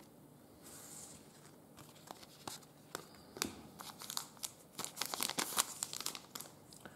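Foil wrapper of a trading card pack being torn open and crinkled: a faint rustle at first, then a dense run of sharp crackles from about two seconds in that stops shortly before the end.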